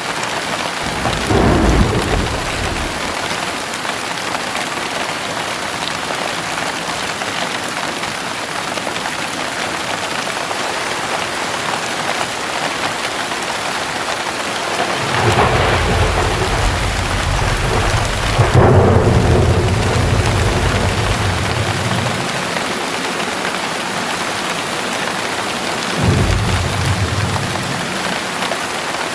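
Heavy rain falling steadily, with thunder rumbling three times: briefly about a second in, a long roll around the middle that is loudest partway through, and a short rumble near the end.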